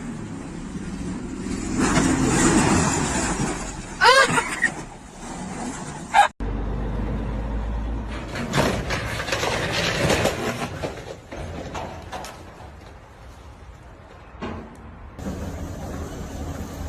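Dashcam audio of road traffic: vehicle noise with a brief wavering squeal and sharp knocks about four seconds in, and another loud hit near six seconds. After that the sound cuts abruptly to a different recording of traffic noise.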